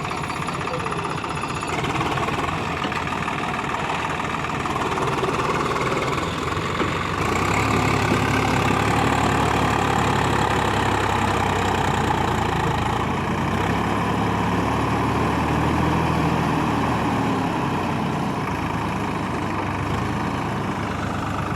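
Swaraj 744 XT tractor's diesel engine running under load, its pitch rising and falling as engine speed changes. It gets louder about seven seconds in.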